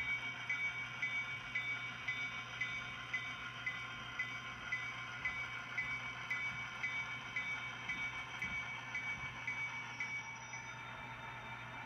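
Model diesel locomotive's sound decoder playing the diesel engine running with the bell ringing steadily, the bell slowing and dying away near the end.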